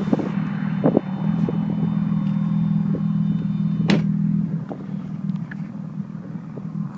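A car's engine drones steadily as it drives along the highway, with a sharp click about four seconds in. Soon after, the hum drops and turns quieter as the car eases off.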